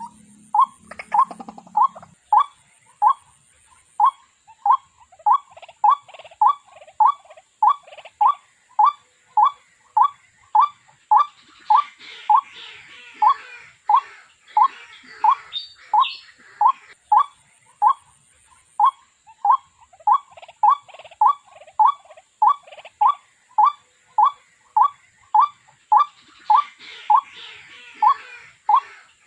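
Waterhen calling: a long, monotonous series of short, identical notes repeated about one and a half times a second without a break. Fainter twittering from other small birds comes in around the middle and again near the end.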